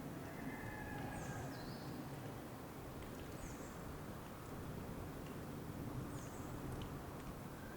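Steady outdoor ambience with a low rumbling hiss, over which a small bird gives four short, high chirps that fall in pitch, spread through the first six seconds.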